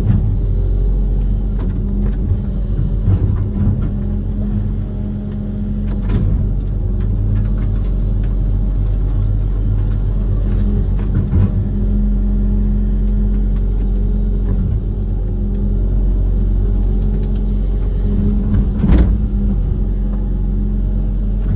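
Diesel engine of a Kobelco SK130-based amphibious excavator running steadily under working load, with a few sharp knocks, one about six seconds in and one near the end.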